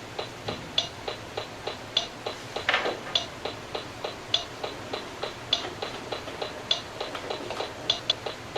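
Steady ticking rhythm: sharp clicks about three a second, with a louder accented tick about every 1.2 seconds, like a clock-tick beat. A brief hiss comes in about three seconds in.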